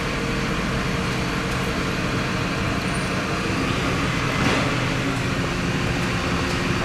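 A large vehicle's engine running steadily, with a brief louder noise about four and a half seconds in.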